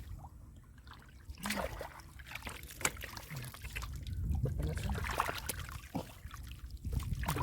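Shallow muddy water splashing and sloshing under hands, with irregular slaps and trickles.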